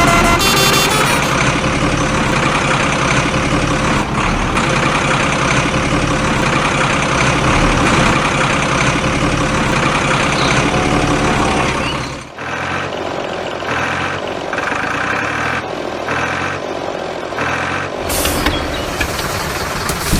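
A truck engine runs loud and steady. About twelve seconds in it changes abruptly to a pulsing, idling engine sound, and a short hiss comes near the end.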